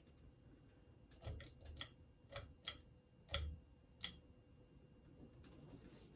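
NuTone Decorator ceiling fan running quietly on high speed, with a faint low hum and a run of about eight light, irregular clicks between about one and four seconds in.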